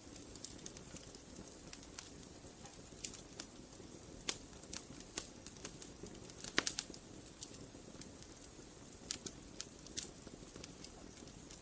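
Wood fire crackling: irregular sharp pops and snaps over a steady low hiss of burning, with a quick cluster of louder pops about six and a half seconds in.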